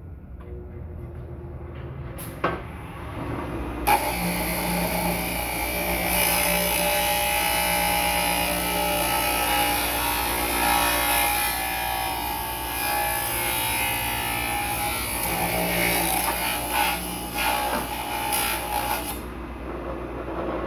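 Bar machine cutting the welded tip of a chainsaw harvester bar to take a new replaceable nose: a motor-driven metal cutter, with a sharp click a couple of seconds in, then a steady loud grinding whine from about four seconds in that drops away near the end.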